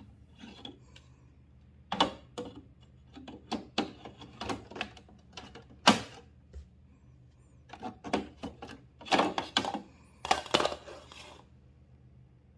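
Hard plastic accessory parts for a portable air conditioner's hot-air outlet being handled, with irregular clicks and knocks coming in clusters.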